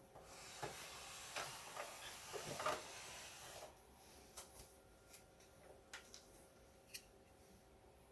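Faint handling noises on a workbench: rubbing and rustling with a few sharp clicks for about the first three and a half seconds, then scattered small clicks and taps.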